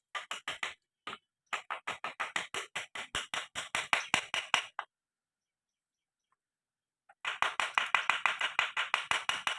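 Runs of rapid clicking, about six clicks a second, from a hand tool working on a motorcycle engine during disassembly, with a silent gap near the middle.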